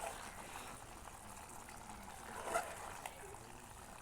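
Chicken curry simmering in a pot: a steady faint hiss, with a short clink about two and a half seconds in.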